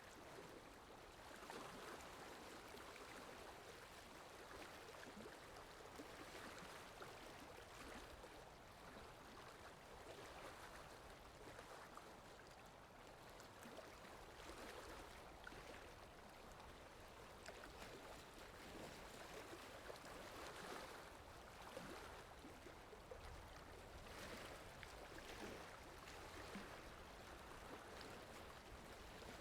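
Running water of a river or waterfall, flowing steadily and faintly, with small irregular splashes.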